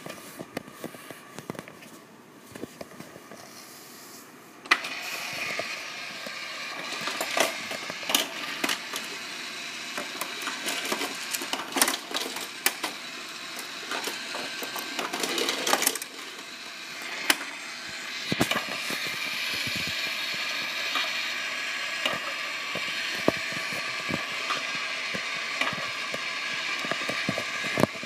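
Small motor of a plastic Tomica toy car playset whirring, with many plastic clicks and rattles of the toy cars running through it. Light clicking at first, then the whirring starts about five seconds in and runs on, dipping briefly past the middle.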